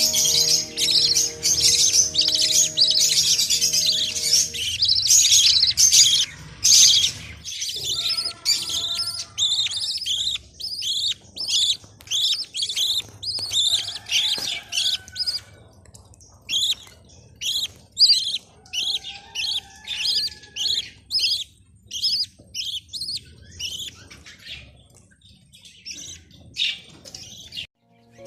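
Budgies chirping: a dense, loud chatter for the first several seconds, then a long run of short repeated chirps, about two a second. Background music with held notes sounds under the chirping and stops about four or five seconds in.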